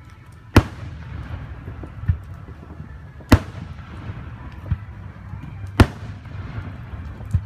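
Aerial firework shells bursting overhead: three loud, sharp booms about two and a half seconds apart, each trailing off in an echo, with fainter thuds between them.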